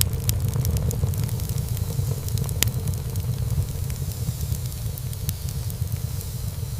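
Wood fire burning in a fireplace: a steady low rumble of flames with frequent small crackles and pops, one sharper pop about two and a half seconds in.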